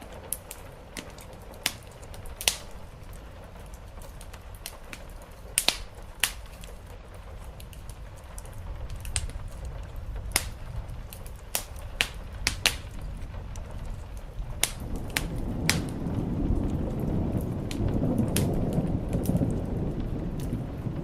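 Steady rain with an open wood fire crackling in scattered sharp pops. A low rumble swells from about the middle and is loudest near the end.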